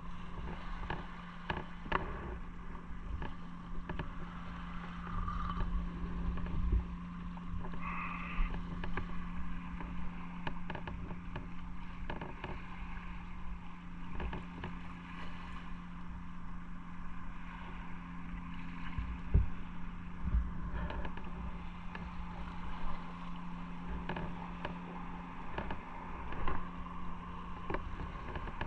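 Motorcycle engine running at a steady note while riding, with wind noise and frequent short knocks from the road.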